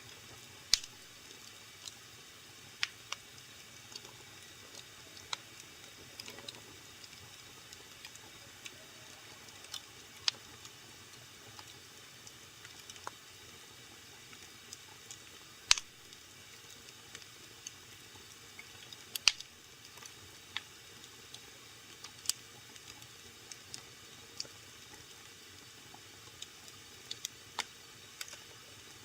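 Wood fire burning in a fireplace, crackling with irregular sharp pops over a steady low hiss. The loudest pops come about a second in, about sixteen seconds in and about nineteen seconds in.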